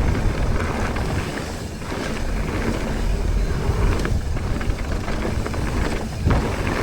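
Wind buffeting the microphone over the rolling noise of a mountain bike's tyres on a dirt trail, riding downhill. The rumble swells and dips unevenly with the terrain.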